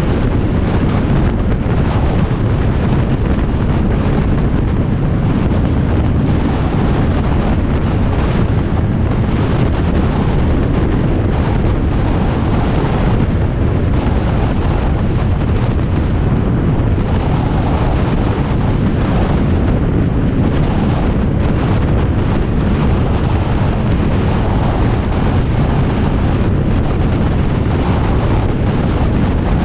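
Steady, loud wind buffeting on the microphone from riding a Harley-Davidson Iron 1200 at highway speed, with the bike's V-twin engine running underneath the rush.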